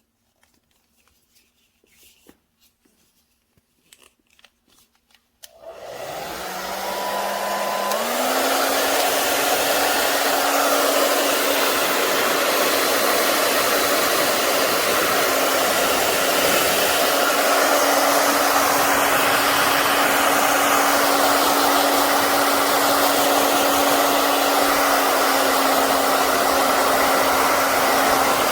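Wavytalk ionic hair dryer switched on after a few faint clicks. Its motor spins up, steps up to a higher pitch a couple of seconds later, then blows steadily with a loud rushing air noise.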